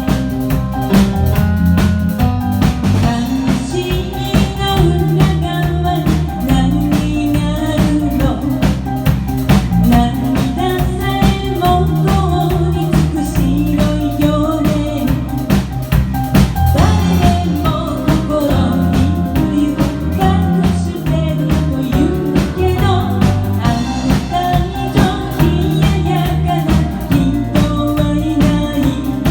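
A band playing a pop song with drum kit, electric bass and keyboard, a singer's melody carried over the beat.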